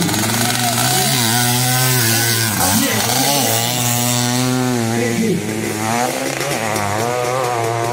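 A 600cc hillclimb motorcycle's engine running hard, its pitch rising and falling as the throttle is worked, with brief drops in revs about three and five seconds in.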